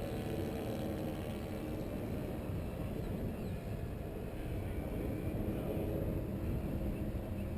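Wind buffeting the microphone in a steady low rumble, with the faint whine of the electric motors of a radio-controlled B-17 model bomber in flight.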